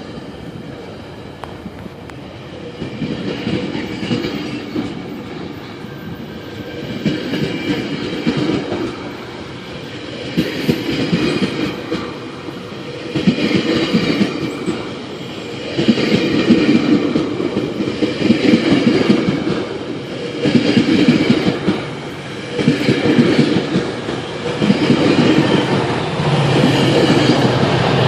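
Train passing, its wheels clattering over the rail joints in repeated surges, one per car, that come steadily closer together and louder.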